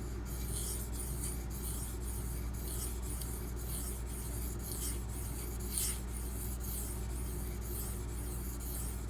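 D2 steel knife blade being stroked back and forth across a fine-grit whetstone, a steady scraping hiss repeating about twice a second.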